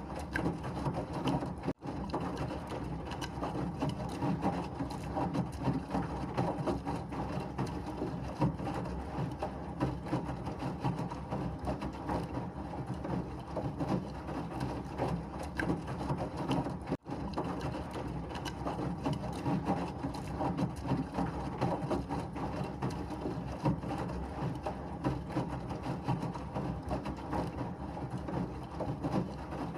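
Washing machine running, a steady dense mechanical rattle and whir, with two brief dropouts, about two seconds in and about seventeen seconds in.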